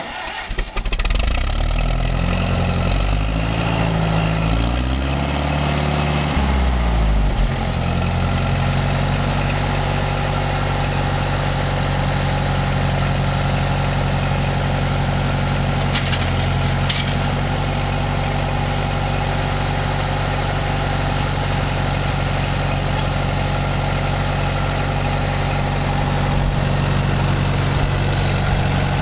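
1973 Oliver 550 tractor engine starting, its speed rising and falling unevenly for several seconds, then settling into a steady idle.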